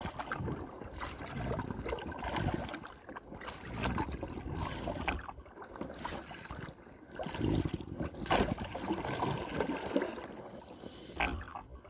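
Uneven water and wind noise around a small boat, with a few sharp knocks, the loudest about eight seconds in.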